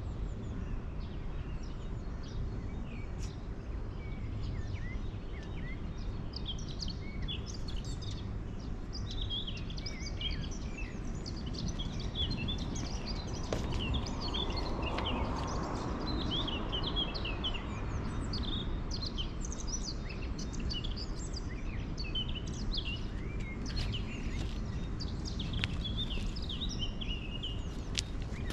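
Several songbirds chirping and singing on and off, over a steady low background rumble of outdoor noise.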